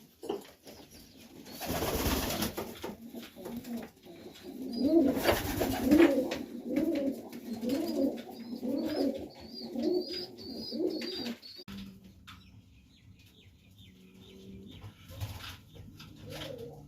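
Pigeon cooing in a loft: a run of about seven rising-and-falling coos, roughly one a second, after two short noisy bursts. A quieter steady low hum follows near the end.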